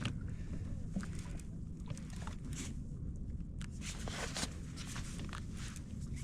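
Scattered soft clicks and knocks over a steady low rumble: handling noise from a kayak angler's rod, reel and boat while playing a hooked California halibut.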